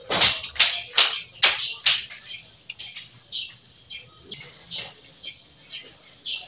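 Close-up eating sounds: crunchy chewing and mouth clicks as a person eats raw-vegetable salad with bread, about two a second and loudest in the first two seconds, then fainter and sparser.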